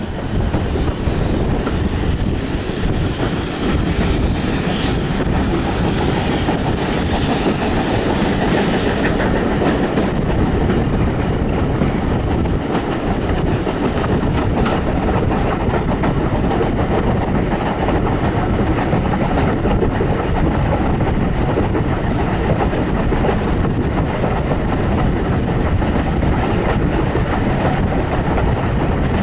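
Heritage railway coaches running along the line, heard from an open carriage window: a steady rumble of wheels on the rails with clickety-clack over the rail joints. The higher hiss drops away abruptly about nine seconds in.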